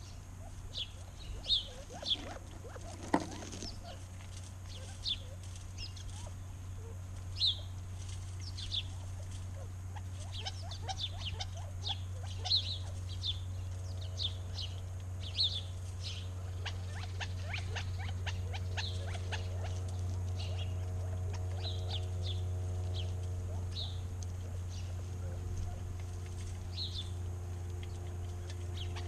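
Small birds chirping over and over in short, sharp calls, over a steady low hum. About halfway a faint steady drone joins in.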